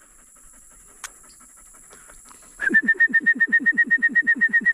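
Hunting retriever dog panting hard and fast, starting about two and a half seconds in, with a faint whistle in each breath. A single click comes about a second in.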